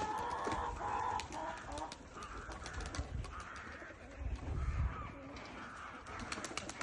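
Domestic pigeons cooing, with many sharp clicks and a few dull low thumps near the middle.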